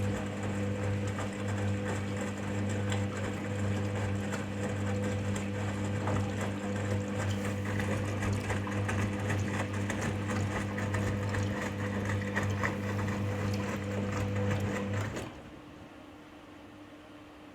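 Hoover washing machine on a cottons first rinse with a deep water level: the drum motor hums steadily while water and laundry slosh and tumble in the drum. About fifteen seconds in the motor stops suddenly, leaving only a faint hum.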